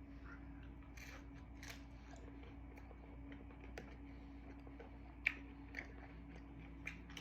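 A person chewing and biting into thin-crust pizza, with scattered short crunches, over a steady low hum.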